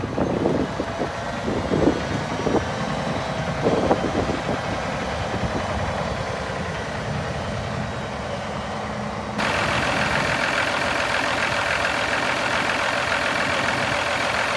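Diesel engine of a 2010 Peterbilt 387 semi truck idling steadily, with a few knocks in the first few seconds. About nine seconds in, the sound abruptly gets louder and brighter, then holds steady.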